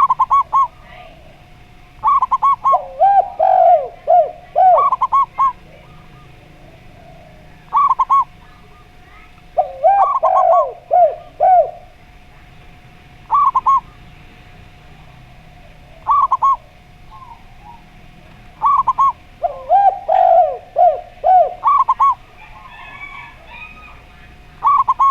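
Zebra dove (perkutut) and derkuku dove cooing in turn: short phrases of quick, clipped coo notes repeat every couple of seconds, some higher and some lower with falling notes, over a faint steady hum.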